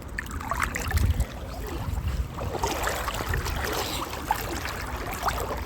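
A person wading through a flowing river, legs splashing and pushing through the water with each step, over the steady rush of the river.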